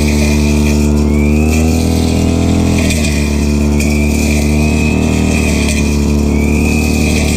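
Stihl FR3001 backpack brushcutter's two-stroke engine running, its engine note shifting in pitch about one and a half and three seconds in.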